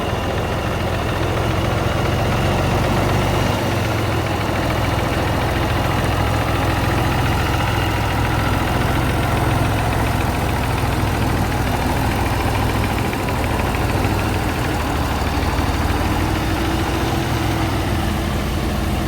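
The engine of a 1975 truck running steadily, a loud, even low drone with no change in pitch.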